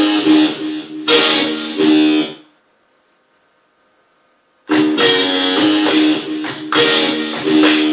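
Guitar playing a blues tune in loud struck chords, breaking off for about two seconds of near silence in the middle before the chords start again.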